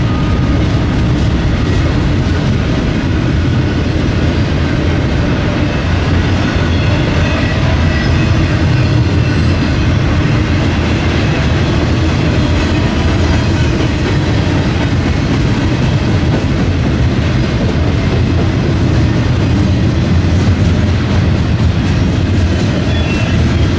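Freight train cars rolling past close by: a loud, steady rumble of steel wheels on the rails with clickety-clack from the rail joints.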